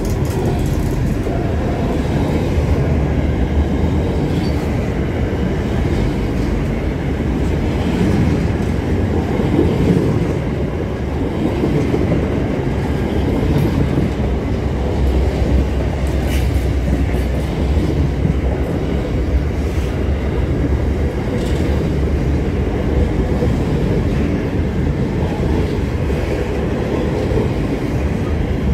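Freight train's container wagons rolling past close by: a steady rumble of steel wheels on the rails, with a few faint clicks.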